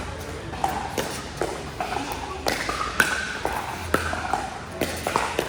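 Sharp pops of pickleball paddles striking the plastic ball, coming irregularly and often overlapping as if from several courts, the loudest about three seconds in, over faint background voices.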